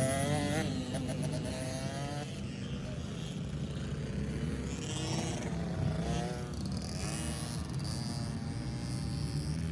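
Kids' dirt bike engine revving on a motocross track, its pitch rising and falling with the throttle in several swells.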